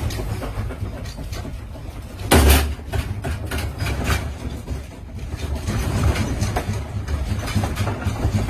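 Earthquake shaking: a deep, steady rumble with objects rattling and knocking, and one loud crash about two and a half seconds in.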